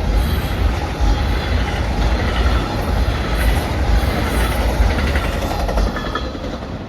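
Amtrak train 53's cars rolling past at speed: a steady low rumble with the clatter of wheels on rail and a few brief faint high squeals, easing off slightly near the end.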